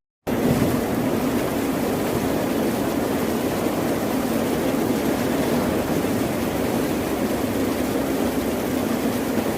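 Steady rushing noise of the sea with a low rumble beneath, cutting out completely for a split second right at the start.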